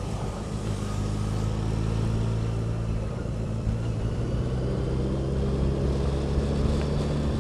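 A vehicle's engine running steadily while cruising along the road, with light road and wind noise. The engine note holds fairly even pitch, rising slightly about a second in.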